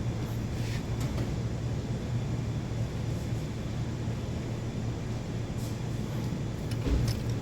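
A steady low mechanical hum, with a few faint clicks early and a short knock about seven seconds in.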